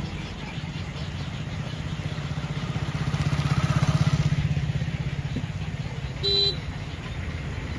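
Small engine running steadily with a low, even pulse, getting louder around three to four seconds in. A short beep comes about six seconds in.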